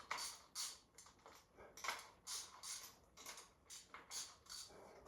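Socket ratchet backing out spark plugs, its pawl clicking in short strokes about two or three times a second.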